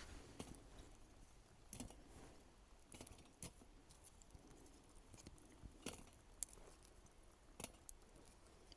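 Faint, irregular sharp clicks and taps, about seven in all, over a quiet background.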